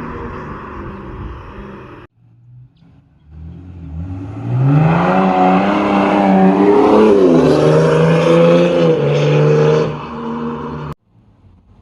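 BMW 330d straight-six turbodiesel through a 76mm stainless straight-pipe exhaust. A steady engine note cuts off abruptly about two seconds in; after a short gap the engine is pushed again, its pitch rising, dipping around the middle, then levelling out before a sudden cut near the end.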